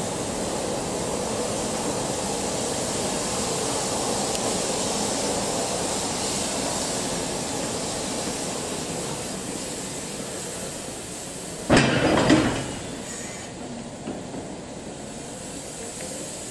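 Japanese Railways 50-series passenger coaches and steam locomotive C11 325 rolling slowly along a station platform, wheels running on the rails, the noise fading as the train slows nearly to a stop. About twelve seconds in comes a sudden loud burst lasting under a second, followed by a quieter steady hiss.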